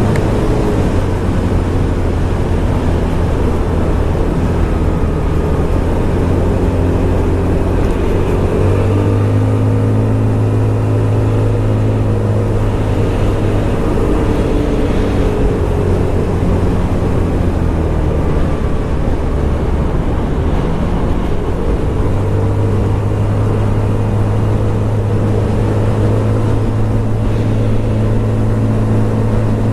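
Scomadi TT125 scooter's 125cc single-cylinder engine running under way, its note rising and falling with the throttle: it steps up about a third of the way in, eases off in the middle and picks up again near the end, over a steady rush of noise.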